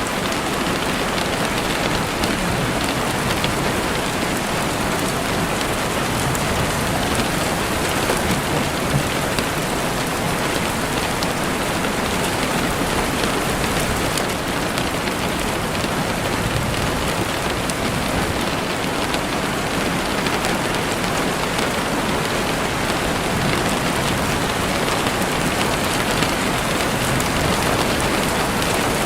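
Heavy rain falling steadily on a window, a dense, even hiss of drops with no breaks.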